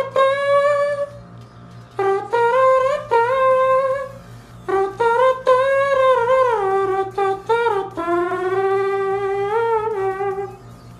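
A high-pitched human voice humming a wordless tune in four long phrases, with sliding and wavering notes, over a steady low hum.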